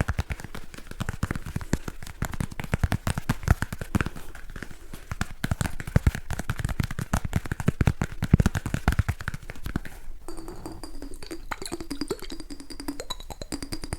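Fast, rapid tapping on an object for ASMR, many sharp taps a second. About ten seconds in it switches to a different trigger with a few steady ringing tones.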